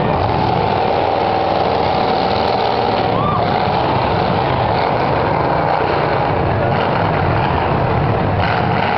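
Loud, steady running of demolition derby car engines.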